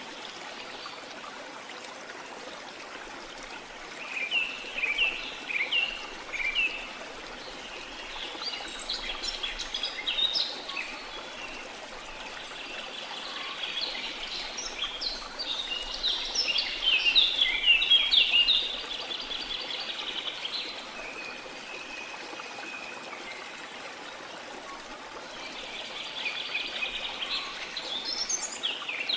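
Steady rush of a waterfall with birds singing over it. The birds come in bursts of quick chirps a few seconds in, then a busier stretch of song in the middle that is the loudest part, and again near the end.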